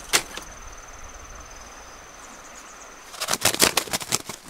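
A steady, high-pitched insect trill over quiet outdoor background, with a sharp click near the start; about three seconds in, loud irregular crackling and rustling begins.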